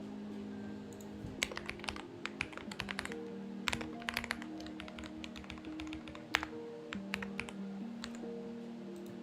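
Typing on a Xinmeng X98 mechanical keyboard: irregular runs of sharp key clicks starting about a second in, over soft background music with long held notes.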